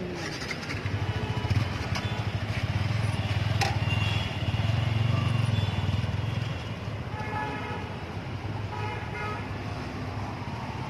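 Yamaha R15 V3's 155 cc single-cylinder engine running at low revs as the motorcycle is ridden slowly off, loudest for the first few seconds and then fading as it moves away. A vehicle horn toots briefly twice near the end.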